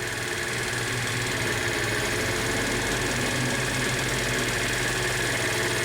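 A 2017 TaoTao 50cc scooter's GY6-type single-cylinder four-stroke engine idling steadily.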